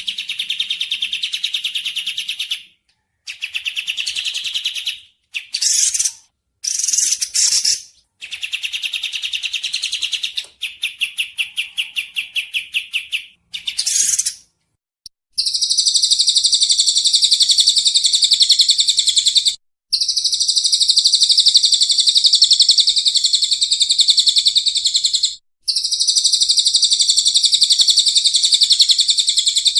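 Recorded bird calls: rapid chattering trills in short bursts of one to three seconds, then, about halfway through, long buzzing trills of several seconds each, broken by brief pauses.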